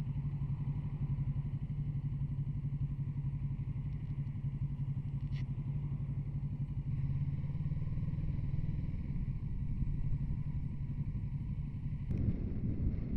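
Kawasaki Z650RS motorcycle engine running at a steady speed, a low even hum.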